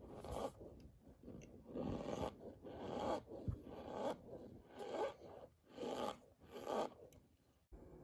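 Cornstarch being crunched and squeezed: a string of about six short, grainy crunches roughly a second apart, stopping abruptly near the end.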